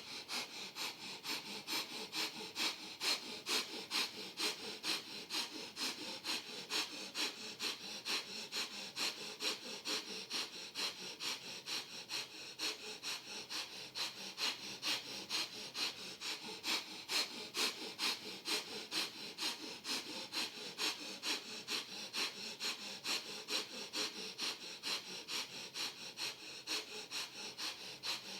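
Breath of Fire: a person breathing rapidly and evenly in and out through the nose, short sniff-like inhales and snort-like exhales at a steady pace of about two to three breaths a second.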